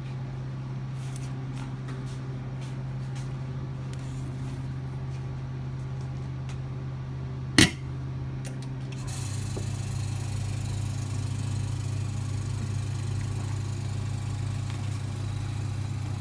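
LCD vacuum laminating machine running with a steady low hum. A sharp click comes a little past the middle. From about nine seconds the hum grows louder and a hiss joins it.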